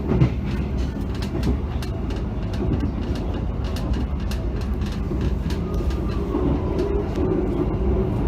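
Kertajaya passenger train running, heard from inside a carriage: a steady low rumble with frequent short clicks and rattles, and a single thump just after the start.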